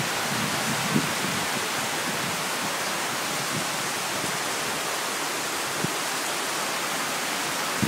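Heavy tropical rain falling in a steady, even hiss, with a few faint drops or splashes ticking through it.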